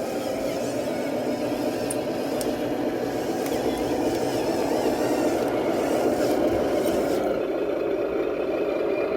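Remote-control 8x8 truck running, a steady drone from its drive with a few light clicks in the first two-thirds.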